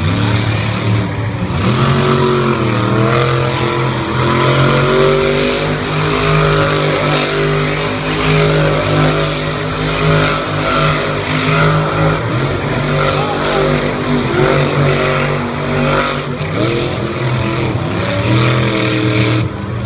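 Monster truck engine running loud with a steady drone, its pitch dipping and climbing as it revs about two seconds in and again near the end.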